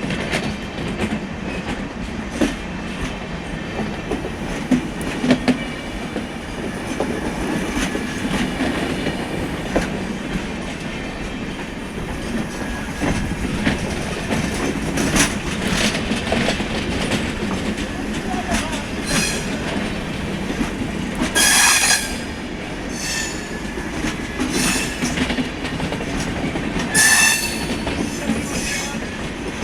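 Karmabhoomi Express passenger train running past, its wheels clattering rhythmically over the rail joints. Short high-pitched wheel squeals cut in twice, loudest about two-thirds of the way through and again near the end.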